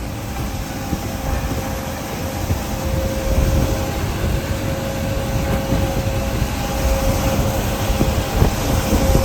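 Steady low rumble of a running heavy vehicle engine, with a faint steady hum over it.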